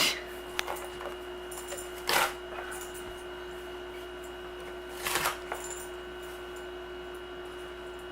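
Cardboard box being ripped apart by an Alaskan Malamute puppy's teeth and paws: three short tearing rips, near the start, about two seconds in and about five seconds in, over a steady faint hum.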